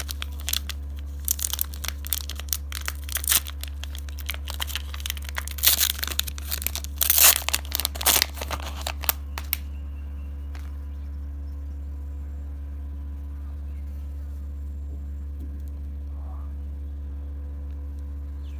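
Plastic candy wrapper crinkling and tearing in quick irregular crackles for about the first nine seconds, then stopping. A steady low hum runs underneath throughout.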